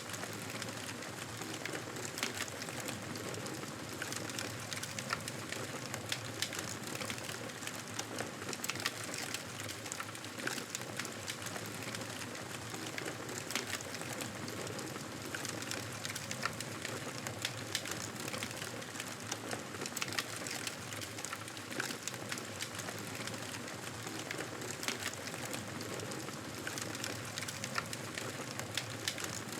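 Wood fire crackling, with frequent sharp pops and snaps over a steady hiss.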